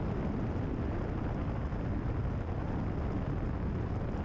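Cessna 172RG's engine and propeller running in cruise flight, a steady drone heard inside the cabin.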